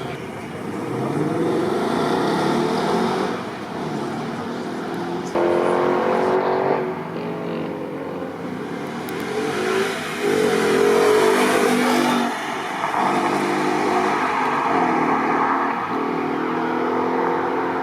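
Ford Mustang 5.0 V8 accelerating hard, its engine note climbing in pitch through several rising pulls with drops between them, loudest about two thirds of the way through.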